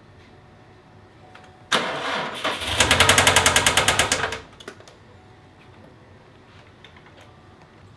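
Subaru flat-four engine cranked on the starter and briefly catching, running with a fast, even pulsing for under two seconds before it cuts off. It is being started so the source of a knock can be found, which a shop has called rod knock.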